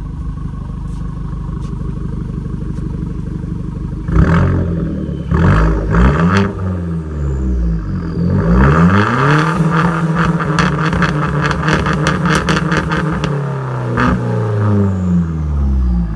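Straight-piped Hyundai Genesis idling, then revved hard while standing still. A few quick blips come about four seconds in, then a long rev is held high with a fast, regular crackle for several seconds, and it drops back to idle near the end.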